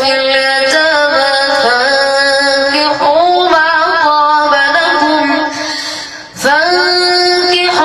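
A boy's high voice reciting the Quran in a melodic chant, with long held, ornamented notes. It fades out for a breath about six seconds in, then comes back on a rising note.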